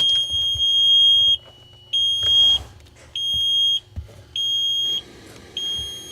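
A click as the ignition key is turned to run, then the truck's dash warning buzzer sounds a steady, high-pitched beep that repeats about once every 1.2 seconds, as it does with the key on and the engine not running.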